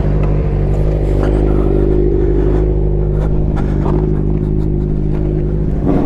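A vehicle engine running steadily, its pitch rising slightly and settling again between about one and three seconds in, with scattered light clicks.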